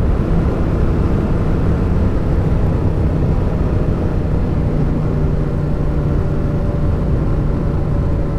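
Motorcycle engine running at a steady cruise, with wind rush and road noise over the helmet microphone.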